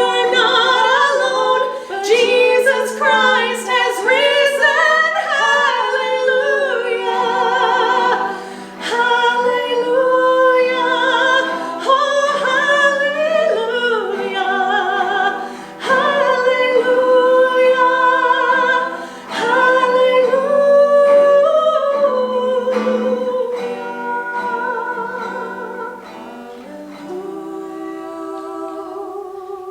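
Several voices singing a sacred song in harmony, with held notes and vibrato, easing softer in the last few seconds.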